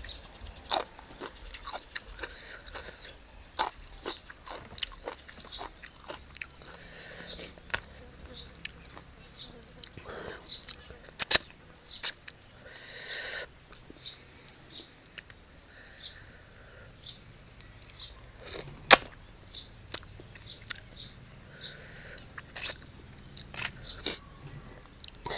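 Close-up eating of crab: chewing and biting with many sharp cracks and clicks of shell, and a rushing noise lasting about a second near the middle.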